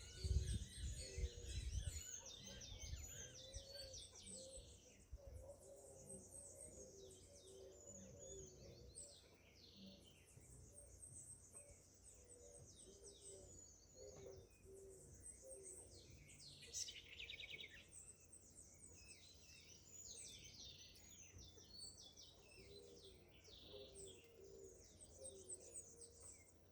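Faint bird chorus: many small birds chirping and twittering, with a repeated low two-note call recurring in the background. There is a low rumble in the first couple of seconds and a short buzzy trill about two-thirds of the way through.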